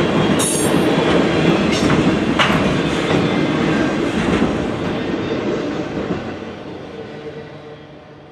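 Tail end of the Ringling Bros. and Barnum & Bailey circus train rolling past: steel wheels rumbling and clacking over the rail, with a brief high wheel screech about half a second in. The sound then fades steadily as the last car moves away.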